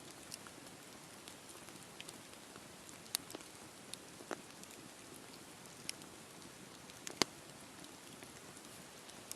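Wood campfire burning: a steady soft hiss with scattered sharp crackles and pops, the loudest about seven seconds in.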